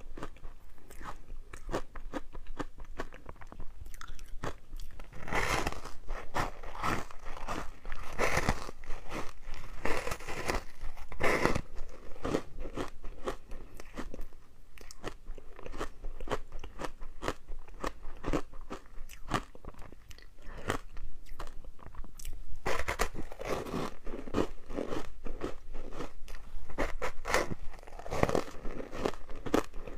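Ice being bitten and chewed close to the microphone: a continuous run of sharp crunches, louder and denser in two stretches.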